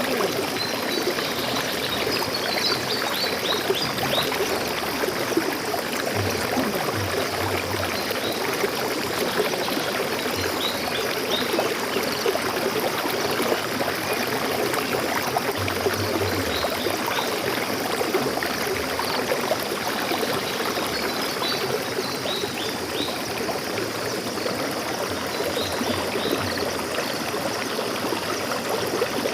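Water flowing steadily in a stream, an even rushing and trickling. Small birds chirp faintly a few times over it, in short high runs.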